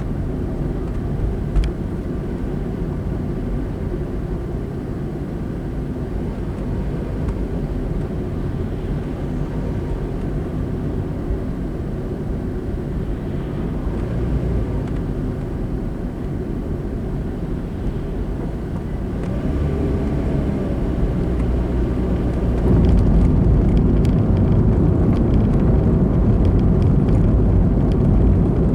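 Car driving on the road, recorded by a dashboard camera: a steady low rumble of engine and tyre noise that grows louder about 20 seconds in and again about 23 seconds in.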